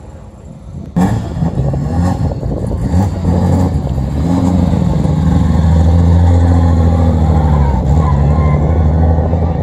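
A classic car's engine starts about a second in, running unevenly at first and then settling into a loud, steady, low-pitched run.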